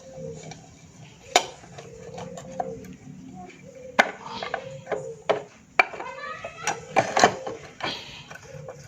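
Metal hand tools and small engine parts clinking and clanking as they are handled and set down. About a dozen sharp metallic knocks come at irregular intervals, the loudest about a second in, at four seconds and around seven seconds.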